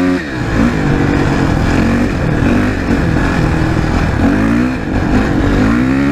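Suzuki RM-Z 450 dirt bike's single-cylinder four-stroke engine running under way, the revs held and then climbing twice in the second half as it pulls.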